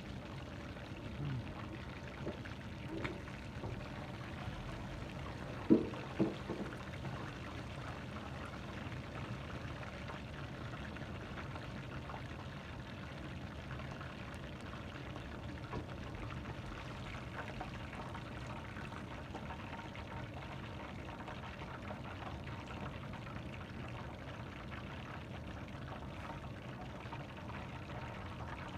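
Chicken drumsticks deep-frying in hot oil, a steady sizzle. There is one sharp knock about six seconds in.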